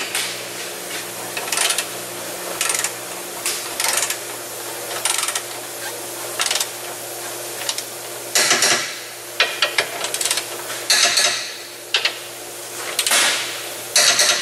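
Hand ratchet on a long extension clicking in short runs, with scattered metal clinks, as the new steering rack's mounting bolts are run in. A steady low hum runs underneath.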